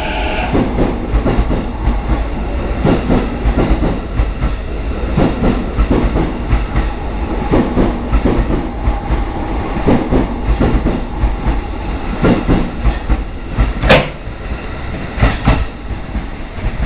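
JR East E233-5000 series electric train running out of the station, its wheels knocking over rail joints at irregular intervals over a steady rumble. There is one sharper, louder clank about three-quarters of the way through.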